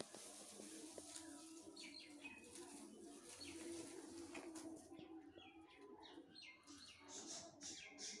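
Faint chirping of small birds, short high calls coming thick and fast in the second half, over a low steady hum.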